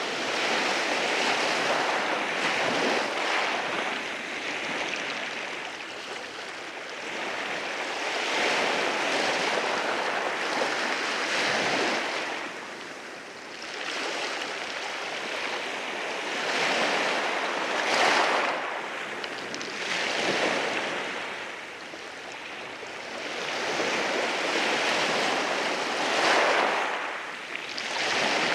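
Sea waves breaking and washing in over rocks, a steady rush that swells and fades every few seconds, with a sharper crash about 18 seconds in and again near the end.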